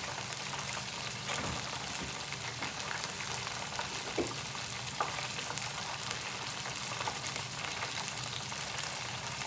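Hot oil in a deep fryer sizzling steadily, with scattered small crackles and pops as battered seafood fries.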